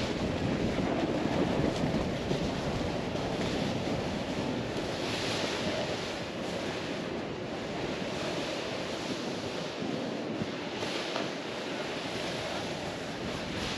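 Snowboard sliding through powder snow, a steady rushing hiss, with wind buffeting the microphone.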